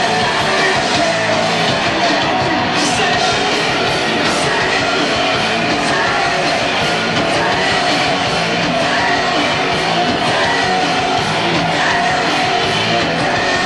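Live punk rock band, loud and distorted, with yelled vocals, heard on an audience cassette recording in a club.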